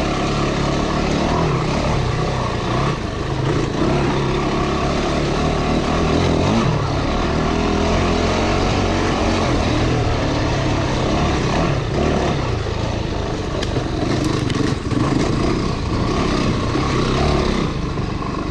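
Off-road motorcycle engine running while riding a dirt trail, its pitch rising and falling with the throttle.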